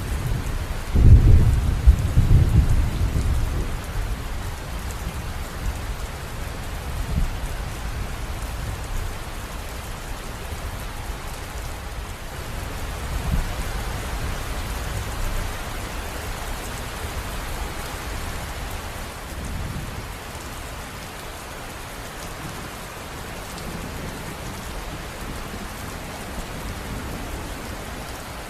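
River water rushing and splashing in a steady stream, with low rumbling surges; the strongest comes about a second in and lasts a couple of seconds.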